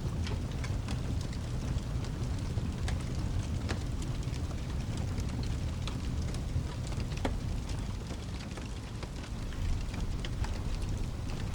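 Steady rain over a low rumble, with a fireplace crackling: scattered sharp pops throughout.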